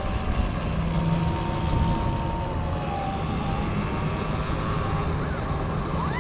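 Riding a Sur Ron electric dirt bike: a steady rush of wind and road noise, with a faint thin motor whine that drops slightly in pitch about three seconds in.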